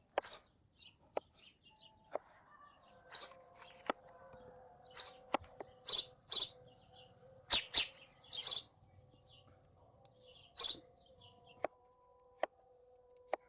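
A knife cutting through fresh fruit and tapping on a cutting board: irregular sharp taps and short crisp slicing sounds, a dozen or so, with faint steady tones underneath from about two seconds in.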